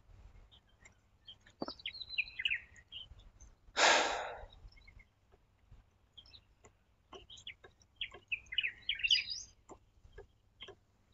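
Small birds chirping in short twittering phrases, twice, among scattered faint clicks. About four seconds in comes a short breathy rush, the loudest sound.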